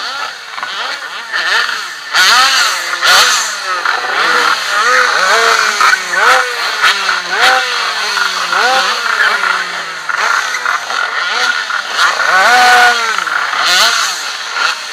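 Two-stroke minimoto racing engine at high revs, its pitch climbing quickly and then falling away again and again as the throttle opens and closes through the corners, with noise from the air rushing past the bike-mounted microphone.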